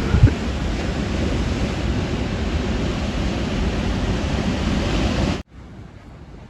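Rough sea surf crashing and rushing on the shore, with wind on the microphone; it cuts off abruptly near the end, leaving a much quieter hiss.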